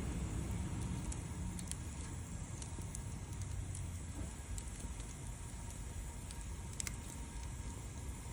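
Wood fire crackling: scattered sharp pops and ticks, the clearest about seven seconds in, over a steady low rumble.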